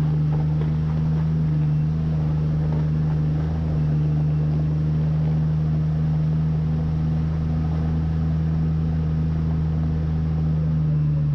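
Jeep Cherokee's engine running at a steady speed, a low, even drone that holds one pitch throughout.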